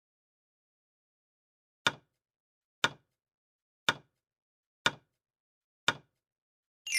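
Countdown-timer sound effect: five sharp ticks, one a second, followed right at the end by a bright chime.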